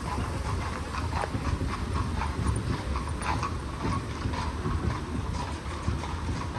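Horse-drawn carriage on the move: the horses' hooves clip-clop in an uneven rhythm of knocks, over a steady low rumble of the carriage rolling.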